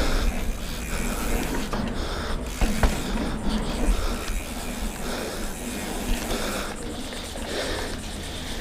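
Mountain bike being ridden over a sandy trail: steady tyre and drivetrain rolling noise with a low rumble and occasional clicks and rattles.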